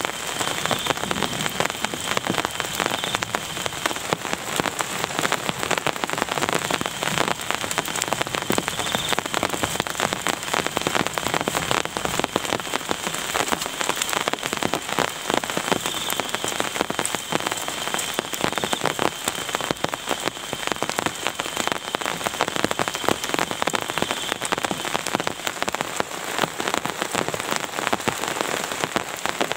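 Steady heavy rain, a dense patter of countless drops striking a surface.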